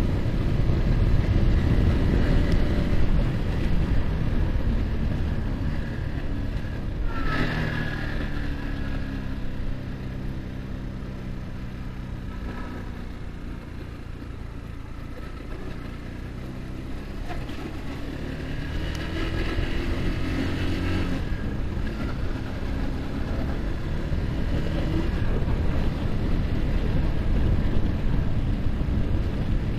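Yamaha R15's single-cylinder engine with wind rushing over the microphone on the move. The engine note falls as the bike slows about seven seconds in and stays low for a while, then rises as it accelerates again past the twenty-second mark, the wind building back with the speed.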